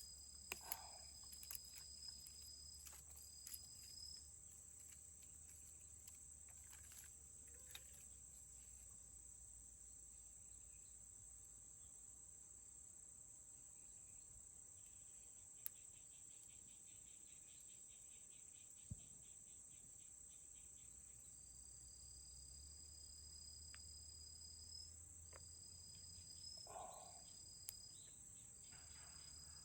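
Faint night insect chorus: crickets trilling steadily in a high pitch, one trill breaking into short runs near the end, with a few scattered sharp clicks.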